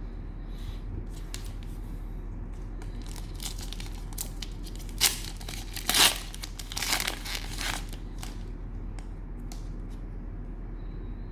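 Cellophane wrapper of a trading-card pack being torn open and crinkled, in a cluster of sharp crackles between about three and eight seconds in, over a low steady hum.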